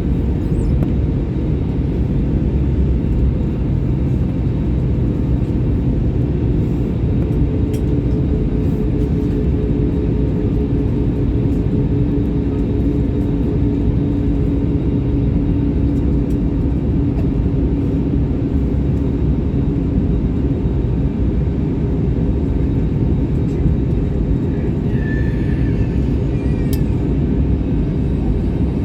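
Airliner cabin noise: the steady low rumble of the jet engines and rushing air heard from inside the passenger cabin, with a steady hum over it.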